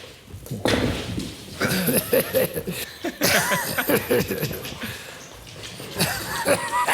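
A man laughing and making wordless excited exclamations in several short bursts, with some noisy clatter mixed in.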